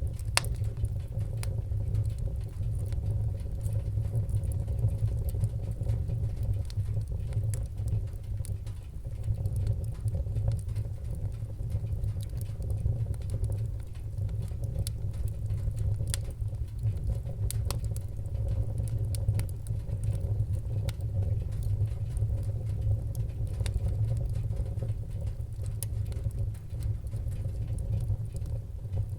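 Fire crackling: a low, steady rumble of flames under irregular sharp pops and snaps.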